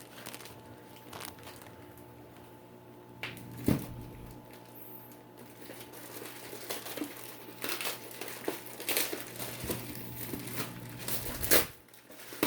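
Plastic courier packaging being crinkled and torn open by hand: irregular crackling and rustling, sparse at first and busier through the second half, with a few sharper tears or knocks.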